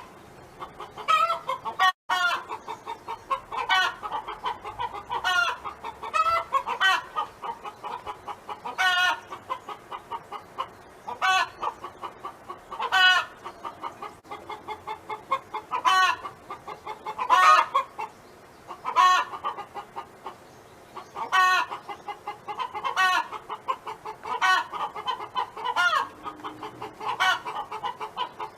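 Domestic hen clucking on and on, with a louder call about every second and a half and quicker, softer clucks between. The sound drops out for an instant about two seconds in.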